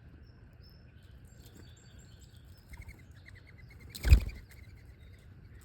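Small songbirds chirping, with a quick run of short repeated notes, then a loud, brief flurry of wingbeats close to the microphone about four seconds in.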